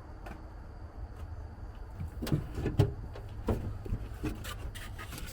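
A run of clicks and knocks, like parts and tools being handled, starting about two seconds in, over a steady low rumble.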